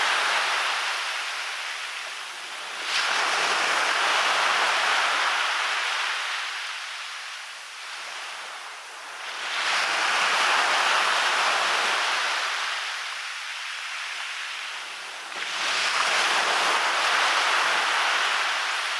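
Waves breaking on a beach, a new surge about every six seconds: each one comes in with a sudden rush and then slowly fades.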